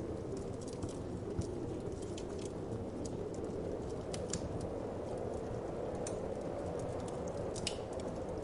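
Wood fire crackling, with irregular sharp pops several times a second, over a steady low whoosh of wind.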